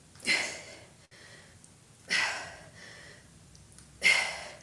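A woman's forceful breathy exhales while pressing dumbbells overhead: three sharp breaths about two seconds apart, one with each repetition.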